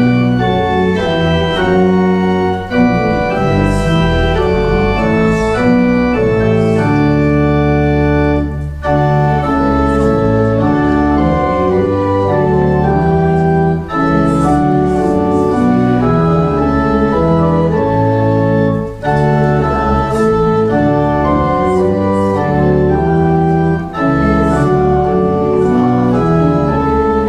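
Church organ playing a hymn tune in full, held chords, phrase by phrase, with a brief break about every five seconds.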